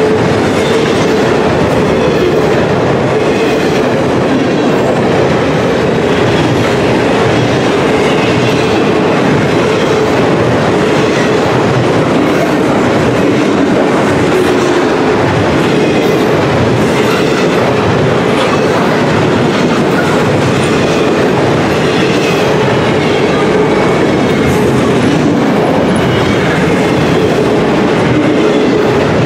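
Freight train cars rolling past, loud and steady, steel wheels clattering over the rail joints, with a faint high wheel squeal now and then.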